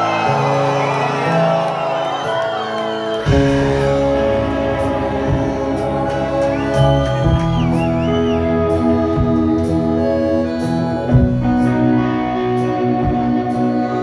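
Live rock band playing an instrumental break between verses, with a lead line of bending notes over sustained chords. The bass and drums come in fully about three seconds in.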